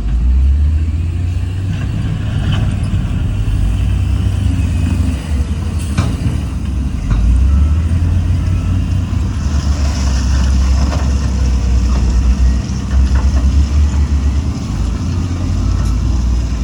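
Heavy diesel earthmoving machinery running with a deep, steady engine rumble. A sharp knock comes about six seconds in, and a hiss rises over the engine at around ten seconds for a couple of seconds.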